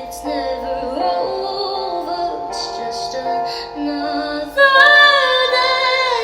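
A song: a female voice sings long, drawn-out sustained notes that slide between pitches, over steady held chords. About four and a half seconds in, the voice gets louder and climbs higher, wavering in pitch.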